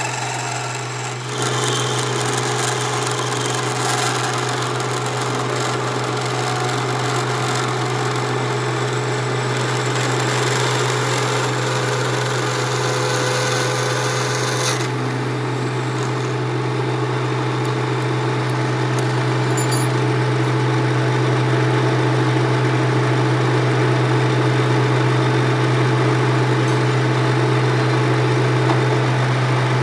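Metal lathe running steadily with a constant low motor hum, a cutting tool scraping and rasping on the metal workpiece. The rasping cut stops about halfway through while the machine keeps running.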